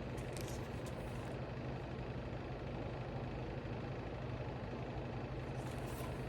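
A steady low hum, unchanging, with a few faint light ticks.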